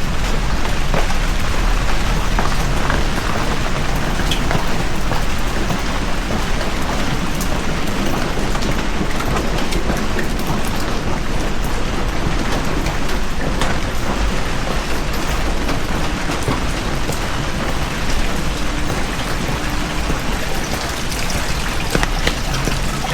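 Heavy rain falling steadily, with many individual drops ticking through a continuous hiss and a low rumble underneath.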